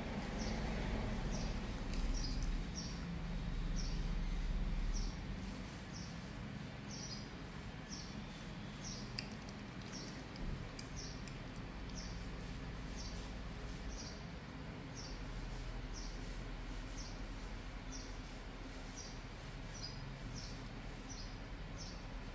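A small bird's short, high chirp repeated steadily, a little more than once a second, over a low rumble.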